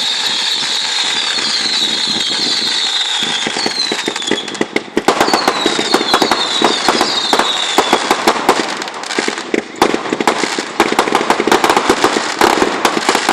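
Fireworks going off with a steady hiss and a run of short falling whistles. From about five seconds in, dense crackling pops join in and carry on to the end.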